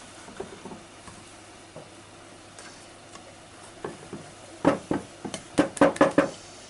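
Knocks and clatter of the drill guide, clamp and wood being handled on a bench. A few faint taps come first, then a quick run of about eight sharp knocks near the end.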